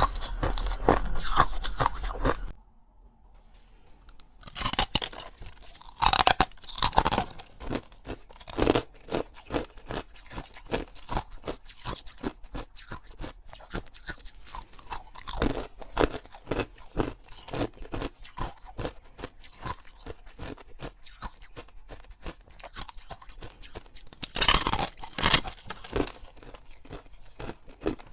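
Close-up crunchy biting and chewing of small baked oval cakes: a rapid run of crisp crackles, a brief pause a few seconds in, then continued crunching with louder bursts of bites soon after and again near the end.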